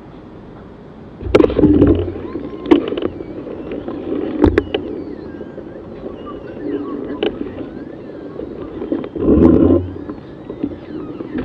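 KTM 200 Duke's single-cylinder engine on the move, surging in loud bursts of throttle about a second in, around four and a half seconds in and again near the end, with wind buffeting and knocks on the action camera's microphone.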